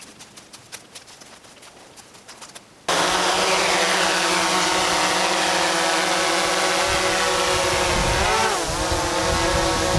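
DJI Mavic 2 quadcopter's motors and propellers, a loud steady multi-tone whine that starts abruptly about three seconds in. The pitch wavers briefly near the end as the throttle changes. Before the start there are only faint scattered clicks.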